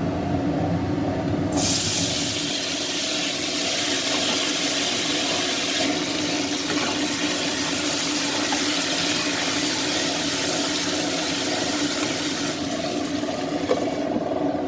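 Water rushing steadily over a low, steady machine hum; the rush stops suddenly near the end while the hum carries on.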